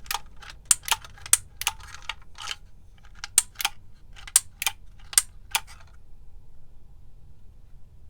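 Hand-operated label maker clicking: about a dozen sharp, irregular plastic clicks as its mechanism is worked, stopping about six seconds in.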